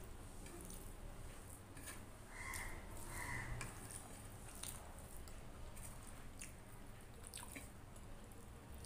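Faint close-up eating sounds of rice and curry eaten by hand: wet chewing and sharp mouth clicks scattered throughout, with two slightly louder squishy chews about a third of the way in.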